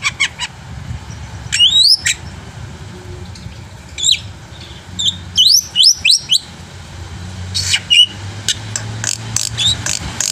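Black-winged myna (jalak putih) singing in loud bursts of sharply rising whistles mixed with short clicks and harsh notes.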